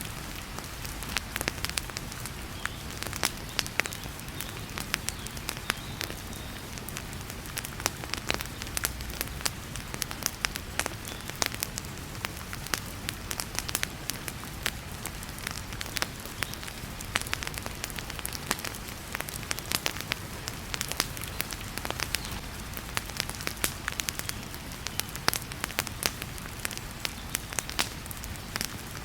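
Wood fire in a fireplace crackling and popping, with many irregular sharp snaps, over a steady hiss of heavy rain.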